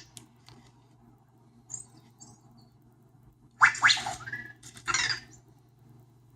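Anki Vector robot making short chirping, squeaky electronic sound effects from its small speaker: a few faint chirps about two seconds in, then two louder bursts near the end.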